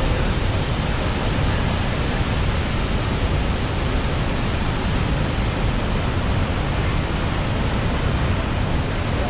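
Steady, unbroken rush of a huge volume of water falling at Niagara's Horseshoe Falls: a dense, even noise heaviest in the low end.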